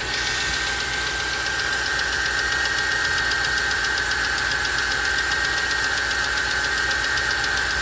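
Ford F-150's 4.6-litre V8 idling warm, with a rapid, steady knock that comes on only once the engine has warmed up; the owner places it on the passenger side of the engine. A steady high whine runs alongside.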